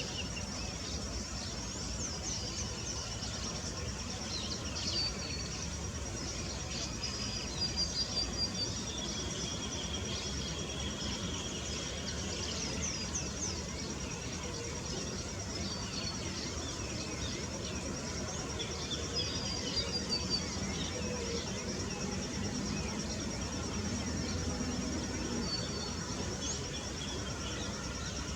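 Outdoor ambience: an insect trilling in a steady, high, even pulse throughout, with small birds chirping and twittering on and off over a low background rumble.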